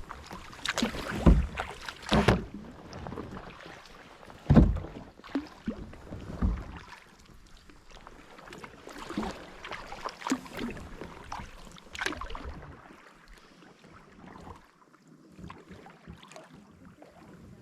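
Kayak paddle strokes splashing in the water, with several louder knocks and splashes in the first few seconds, then quieter dripping water with scattered faint clicks.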